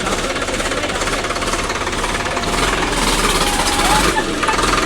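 Tractor diesel engine running with a fast, steady clatter.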